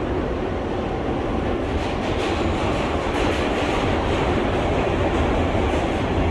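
R143 subway train on the L line running at speed through the tunnel: a steady rumble of wheels and motors on the rails, growing slightly louder, with quick clicks over the rail joints from about two seconds in.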